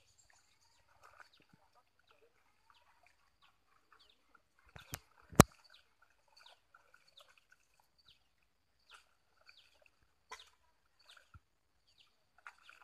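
Birds chirping: short, repeated downward chirps through the whole stretch, over a faint steady high tone. A sharp knock about five seconds in is the loudest sound.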